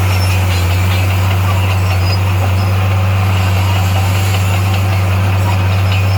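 Heavy-equipment engine running steadily at a constant low pitch, with no change in speed.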